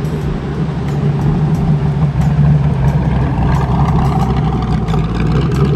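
A sports car's engine running at low revs with a steady deep rumble as the car rolls slowly past, with a little more mid-range sound coming in about three and a half seconds in.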